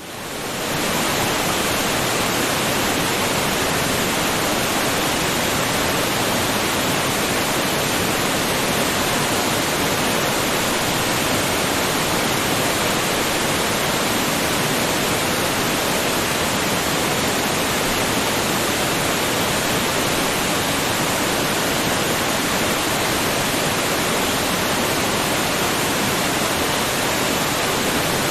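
Waterfall: a steady, even rush of falling water, fading in from silence over about the first second.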